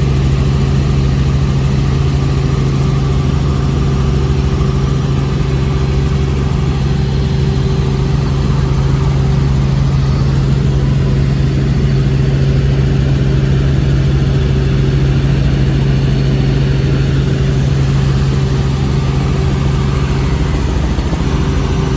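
Helicopter running with a loud, steady drone: a strong low hum with a higher overtone over constant rushing noise, unchanging throughout.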